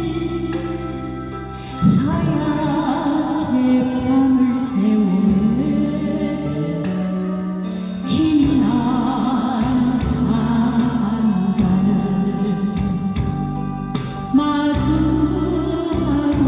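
A woman singing a slow Korean ballad over a backing band, her melody held with vibrato, with new phrases starting about two, eight and fourteen seconds in.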